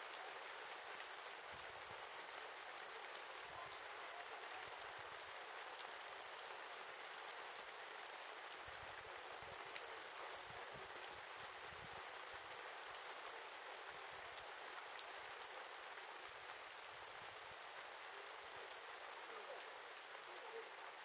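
Wood campfire crackling steadily, with a dense run of small pops and snaps over a soft hiss.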